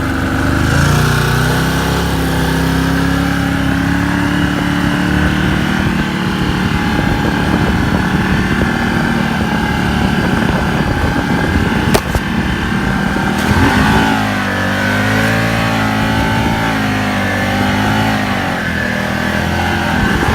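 BRP Maverick buggy's Rotax engine, just rebuilt, running under test. It holds a steady note at first, with a single sharp click about twelve seconds in. After that the engine revs up and down repeatedly.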